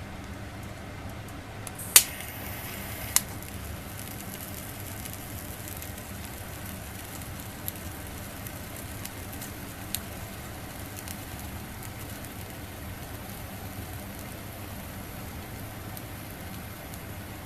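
Food sizzling on a grill net over a small stainless fire stand, a steady hiss. A loud sharp click comes about two seconds in, another a second later, and fainter clicks follow further on.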